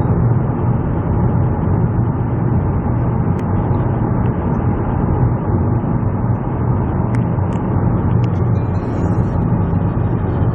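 Steady road and engine noise inside a moving car's cabin: a constant low rumble and hum at cruising speed.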